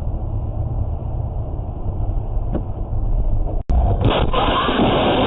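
Car on the move, with a steady low road-and-engine rumble. An abrupt cut about two-thirds of the way through is followed by a louder rushing noise.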